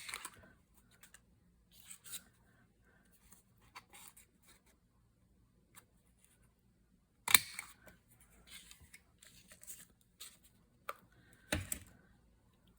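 Scissors snipping paper, cutting a small notch, with paper handled and rustling between cuts; the sharpest snaps come near the start, about seven seconds in, and near the end.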